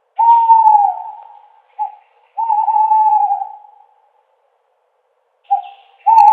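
Owl hooting: three long hoots, each slightly falling in pitch and trailing off, the second and third each led by a short clipped note; the last begins near the end.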